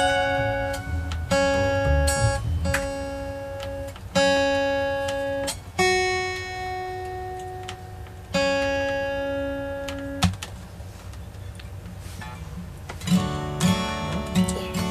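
Acoustic guitar playing a slow song intro: single strummed chords, each left to ring for a second or two. It goes quieter for a few seconds, then faster playing starts near the end.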